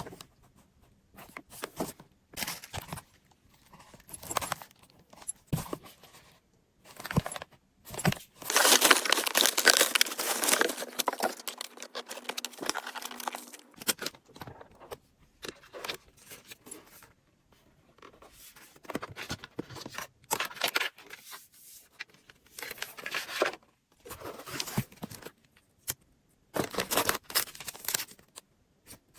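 Product packaging being torn open and handled: short bursts of tearing, rustling and small clinks with pauses between them, and one longer stretch of continuous tearing about a third of the way in.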